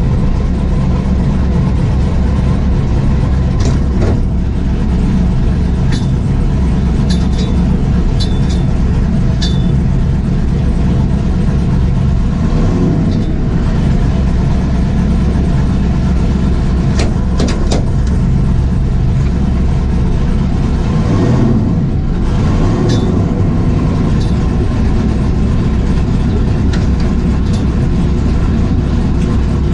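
The 1978 second-generation Camaro drag car's engine idling steadily, with a few sharp clicks over it.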